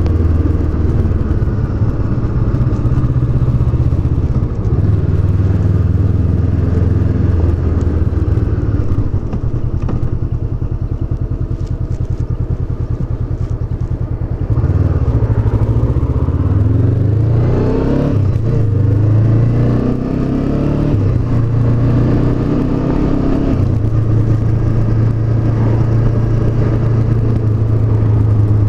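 Honda CB500X motorcycle's 471 cc parallel-twin engine under way: a steady drone, a few seconds of easing off and going quieter midway, then the pitch rising and falling as it revs up through the gears before settling back to a steady cruise.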